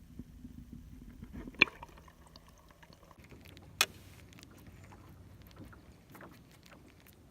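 Light clicks and rattles of fishing gear handled in a jon boat, broken by two sharp knocks: the first and louder about a second and a half in, the second near four seconds. A low hum stops just before the first knock.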